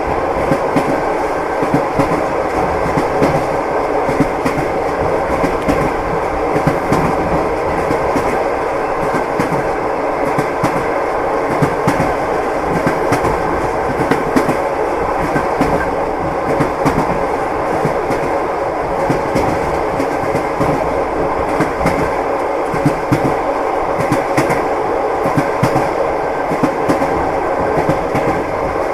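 Train wheels clattering over rail joints: a continuous rumble with a run of sharp clicks and knocks, the clickety-clack of a moving railway carriage.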